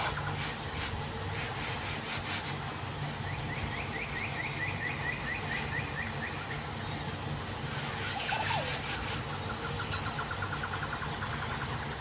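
Background birdsong: a rapid trill of about seven notes a second lasting around three seconds, then a single short call, then a lower trill near the end, over a steady low hum.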